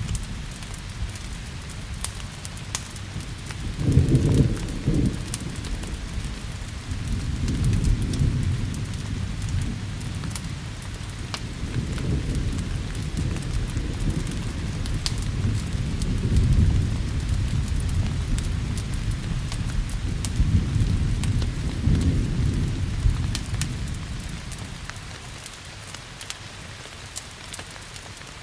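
Steady rain with rolling thunder: a sharp clap about four seconds in, then long low rumbles that swell and fade several times before dying away near the end. Scattered sharp crackles run through the rain.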